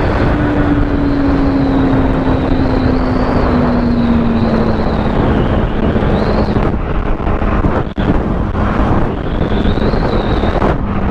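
Motorcycle riding in traffic: the engine's note drops in pitch over the first few seconds, then holds steady, under heavy wind rushing over the microphone.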